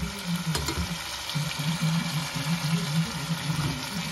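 Chicken wings and peppers sizzling in a spiced sauce in a pot: a steady frying hiss with a few faint pops, and a low hum underneath.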